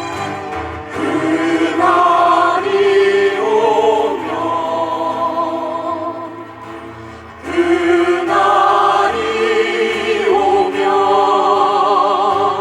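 Choir singing a slow song, in two long sung phrases with a brief drop in loudness about six to seven seconds in.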